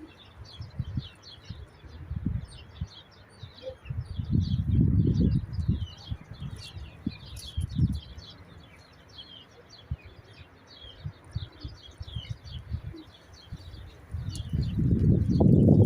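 Many small birds chirping constantly in short, quick, high notes. Under them are low rumbling bursts of noise, loudest about four to six seconds in and again near the end.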